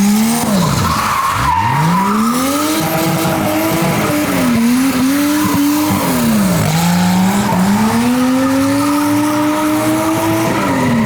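Turbocharged Nissan RB20E straight-six in an R32 Skyline revving hard while drifting, its pitch falling away and climbing again several times, with tyres squealing. The engine is running rich on a retarded distributor and the stock ECU.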